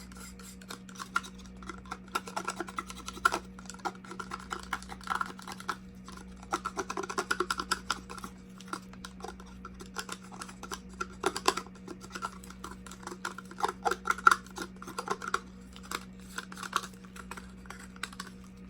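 Irregular small clicks and scrapes of plastic cups and paint being handled, over a steady low hum.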